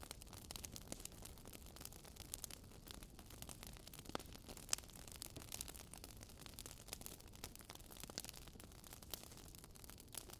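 Campfire burning with irregular crackles and small pops of the burning wood, a couple of louder pops near the middle, over a faint low steady rush.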